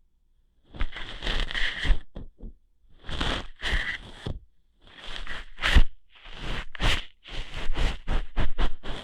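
ASMR ear-hair plucking: scratchy rubbing and plucking strokes, in bursts of up to about a second and a half with short gaps, coming quicker near the end.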